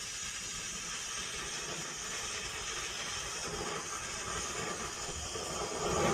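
Gas torch flame hissing steadily as it heats a steel exhaust header pipe so the pipe can be bent.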